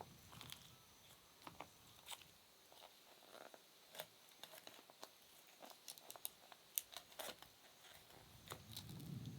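Faint, irregular small clicks and crackles, with a low rumble building near the end.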